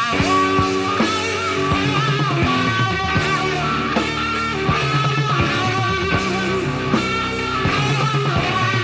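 Hard rock band playing an instrumental passage of a slow ballad: lead electric guitar with long, wavering held notes over bass and drums.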